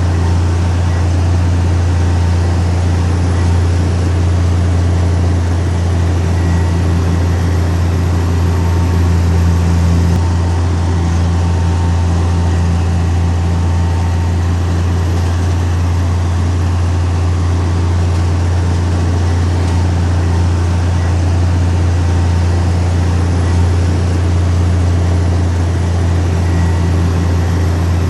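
Heavy diesel engine of earthmoving machinery running steadily, a deep, unbroken drone.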